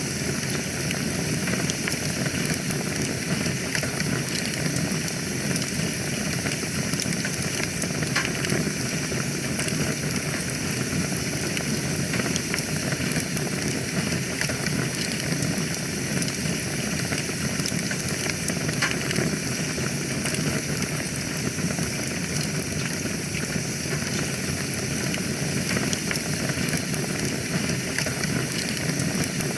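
Wood fire burning in a fireplace: a steady hiss with scattered crackles and small pops.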